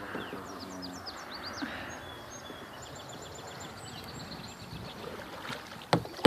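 Outdoor ambience on open water, with birds chirping in short high notes and then singing a quick run of repeated notes. A single sharp knock comes near the end.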